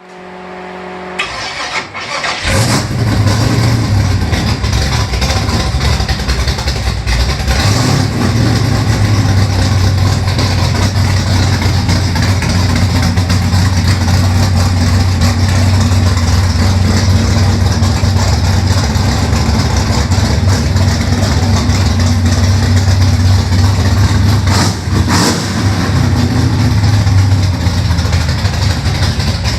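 Car engine cranking and catching about two and a half seconds in on its first start after a new set-up, then running steadily with a deep even note and a couple of brief louder moments.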